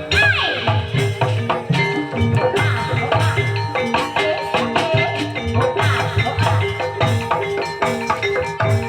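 Live Javanese gamelan-style music accompanying an Ebeg Banyumasan dance: mallet-struck pitched percussion playing steady repeated notes over a continuous hand-drum rhythm.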